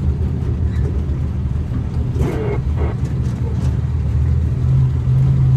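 A motor vehicle's engine running with a steady low hum, its note growing louder about four and a half seconds in.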